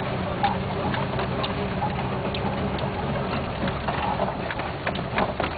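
4x4 vehicle's engine running steadily, heard from inside the cabin, with many irregular clicks and rattles over it.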